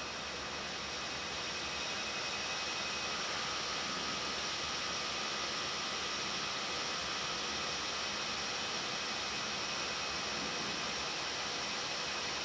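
Steady rushing noise on the flight deck of an Airbus A319 climbing out after take-off. Airflow and engine noise blend with a few faint steady tones above it.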